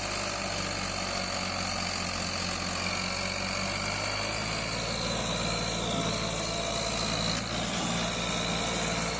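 Ford 3610 tractor engine running steadily and labouring under a heavy load, with barely enough power to move.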